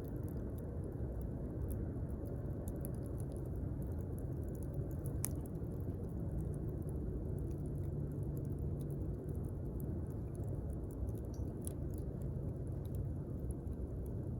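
Wood campfire burning: a steady low rush of flame with scattered sharp crackles and pops, one louder pop about five seconds in.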